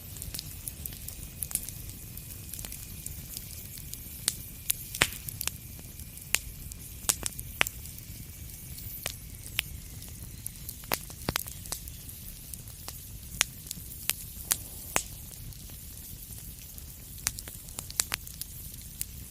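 Wood fire burning in a fireplace: a steady low rumble and hiss with irregular sharp crackles and pops, and a faint thin hissing whistle for the first half.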